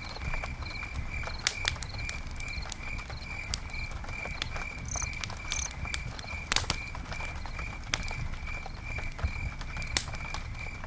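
Campfire crackling and popping, with sharp snaps about six and a half and ten seconds in, over the low rumble of the burning wood. A high chirping call repeats steadily about three times a second in the background.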